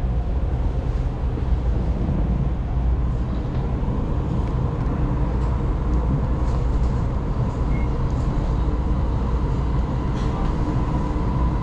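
Steady low rumble of a Taiwan Railways local electric train, with a faint steady tone above it that grows clearer in the second half, and a few faint clicks.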